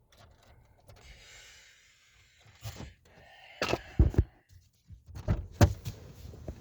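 Handling noise inside a parked car with the engine off: faint rustling, then a series of knocks and deeper thuds over the last four seconds, the loudest about four seconds in.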